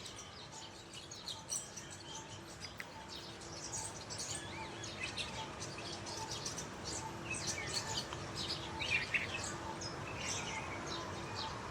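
Small birds chirping, many short high chirps scattered throughout, over a faint low hum that pulses evenly about once a second.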